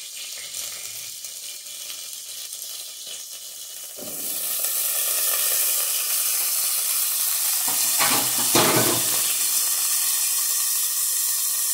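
Canned sardines frying in their own oil in a pot, sizzling. The sizzle jumps much louder about four seconds in and holds steady, with a brief louder rush about eight seconds in.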